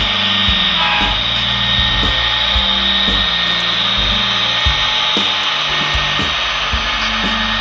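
Diesel locomotives pulling a freight train past: a steady engine drone under a high hiss, with irregular sharp clicks from the wheels.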